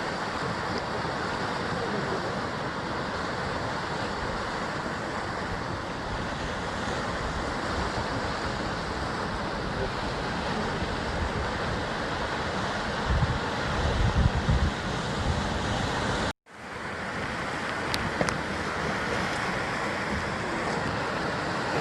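Ocean surf breaking and washing steadily against a rocky basalt coastline, with low rumbling gusts of wind on the microphone a little past halfway. The sound cuts out for a moment about three-quarters of the way through, then the surf resumes.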